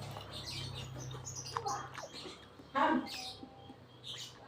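Close-up chewing and wet mouth sounds of someone eating fried noodles with rice, small irregular clicks and smacks with one louder sound near three seconds in, over a faint steady low hum.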